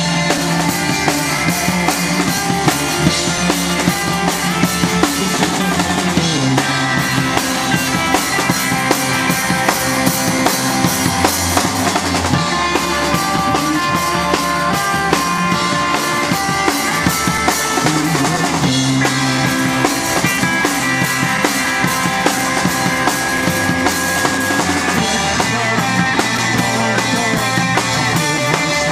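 Instrumental band music with a steady drum kit beat and sustained pitched notes over it, with no singing.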